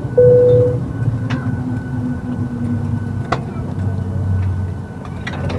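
Steady low hum inside a parked Boeing 737-800's cabin. A short single beep sounds just after the start, and a few sharp knocks follow.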